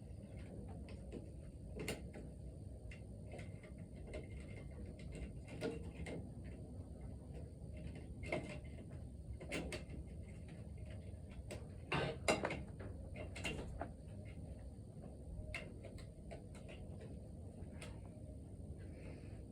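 Hand tools clicking, tapping and scraping on metal at an engine's valve spring while trying to free the valve keeper, with a few louder knocks about twelve seconds in.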